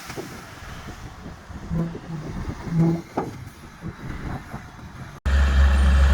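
Heavy earthmoving machinery at work: scattered knocks and clanks with a few short low tones. After an abrupt cut about five seconds in, a heavy machine's engine runs loud and steady.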